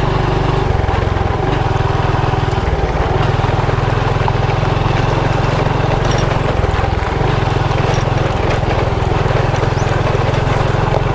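Small motorcycle engine running under way, its note shifting a few times as the throttle or gear changes.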